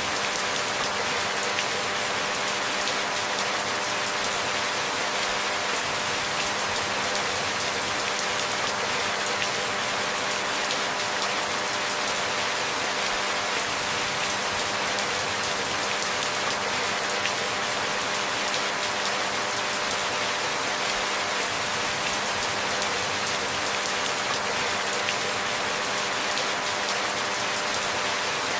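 Steady rainfall: an even, unbroken patter of many drops that holds at one level, with no thunder or sudden changes.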